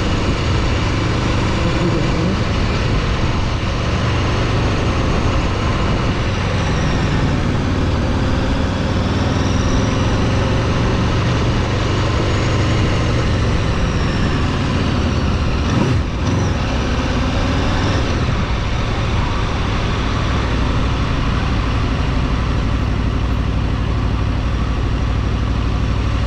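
A road vehicle's engine running steadily, with road and wind noise, while driving; the engine note rises and falls a few times in the middle.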